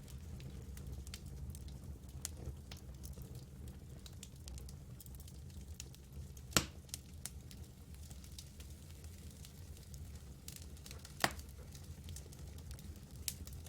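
Campfire burning with a steady low rumble and scattered small crackles, and two sharp louder pops, about six and a half and eleven seconds in.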